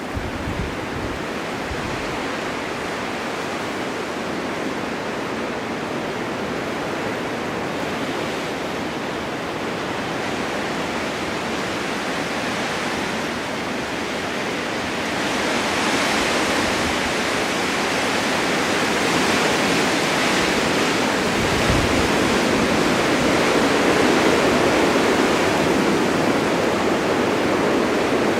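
Blizzard wind blowing steadily with the hiss of driven snow. A stronger gust builds about halfway through and holds, with a couple of brief low buffets.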